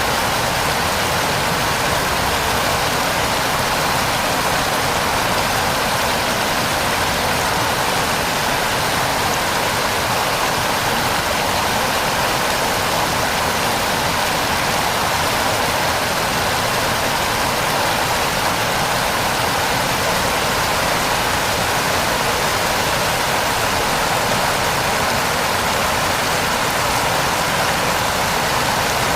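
Steady heavy rain, an even rushing hiss of downpour with no pauses.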